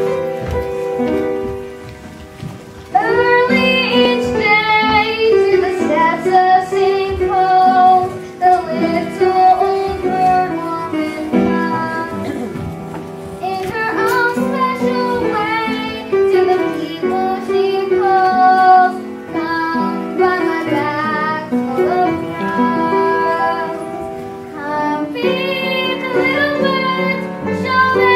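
Music: a singer with a high voice sings a slow melody over instrumental accompaniment, coming in about three seconds in after a short instrumental lead-in.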